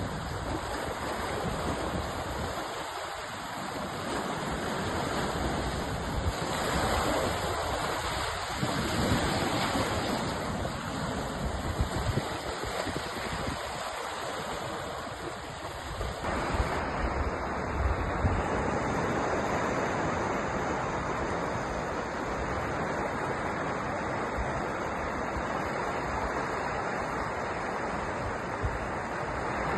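Ocean surf: waves washing onto the shore as a continuous rush of water that swells louder and softer every few seconds.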